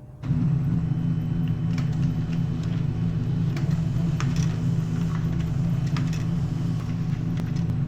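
HP LaserJet 401 laser printer running, its drive motor humming steadily with light clicks and ticks from the paper path. It starts abruptly and cuts off about eight seconds later.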